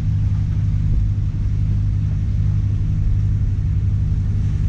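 Sailboat's inboard diesel engine running steadily as the boat motors out of harbour, a constant low rumble with a steady hum.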